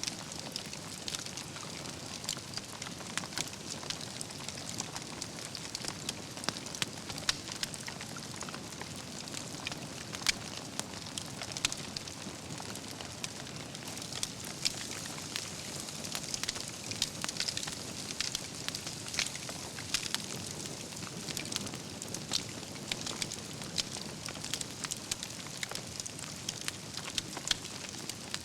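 Wood fire burning, with a steady hiss and frequent irregular crackles and sharp pops from the logs.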